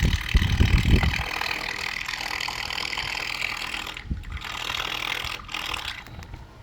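Minn Kota Ultrex 112 lb-thrust bow-mount electric trolling motor running steadily at high thrust, a steady mechanical hum, with wind buffeting the microphone in the first second. The motor seems stuck and speeding up on its own, which the owner takes as a sign it may need rebuilding.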